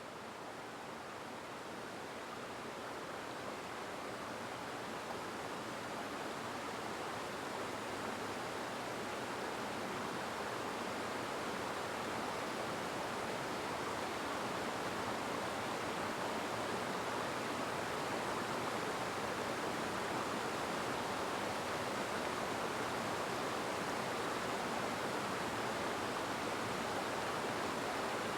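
Steady rushing noise, even and without distinct events, fading in slowly over the first half and then holding level.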